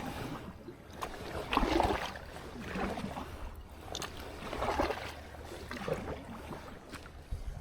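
Water splashing and sloshing around a kayak, coming in regular surges a little over a second apart.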